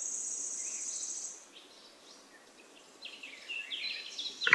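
Outdoor background of small birds and an insect: a high, pulsing insect trill for about the first second and a half, then after a quieter stretch, birds chirping in quick falling notes that grow busier toward the end.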